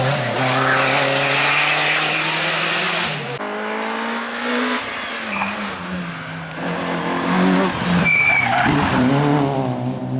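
Rally car engine working hard, loudest for the first three seconds, then quieter with its pitch stepping up and down, before swelling again near the end. A short high tyre squeal comes about eight seconds in.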